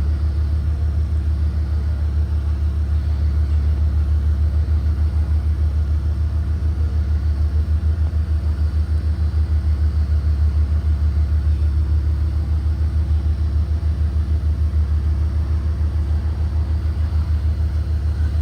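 Engine of a 2023 Blue Bird Vision propane school bus, a Ford 7.3 L V8 running on propane, giving a steady low rumble with a fast, even pulse.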